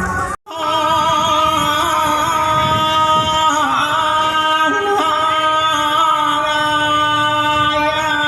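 Music with a singer holding long, wavering notes over accompaniment. The sound cuts out briefly about half a second in.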